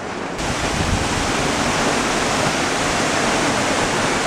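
Steady, loud rushing noise that starts abruptly about half a second in and holds even.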